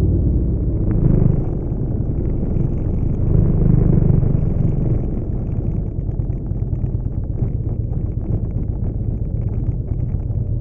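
Motorcycle engine running at low speed, swelling briefly about a second in and again around three to five seconds in, then settling lower and steadier as the bike slows to a stop behind a line of motorcycles.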